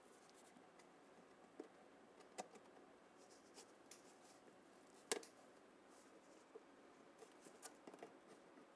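Near silence broken by a few faint, sharp clicks and taps, the loudest about five seconds in, with a quick pair near the end.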